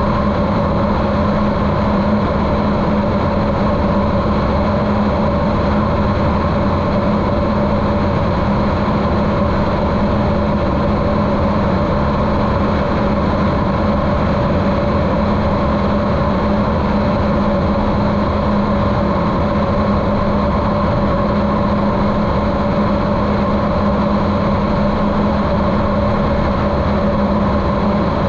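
Continental O-200 engine and propeller of a Cessna 150L at steady cruise power, a constant drone with a strong low hum, muffled by the GoPro's waterproof case.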